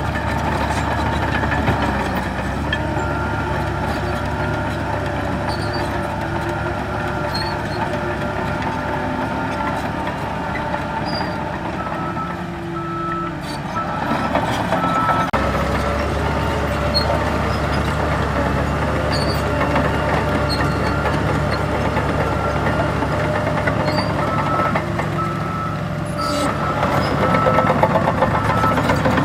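Heavy diesel earthmoving machines running steadily under load, with a reversing alarm beeping in an even run of short beeps. The beeping drops away a little past the middle and starts again near the end.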